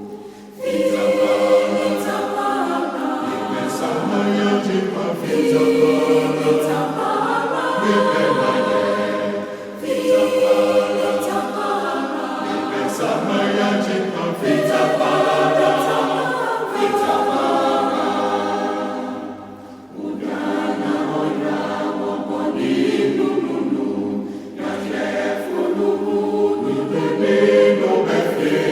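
Church choir singing a hymn a cappella, voices in harmony, in phrases with short pauses between them.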